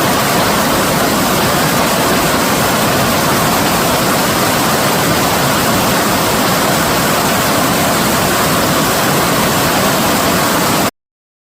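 Fast-flowing stream rushing steadily, a dense even hiss of water over rocks. It cuts off suddenly near the end.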